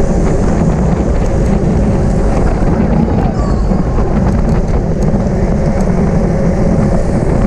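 Loud, steady rush of wind and road noise from a bicycle at racing speed, heaviest in the low end with no pauses.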